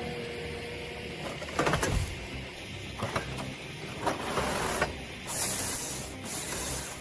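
Heavy wood-processing machinery working, with several sharp cracks and a high hiss lasting about a second just after the middle.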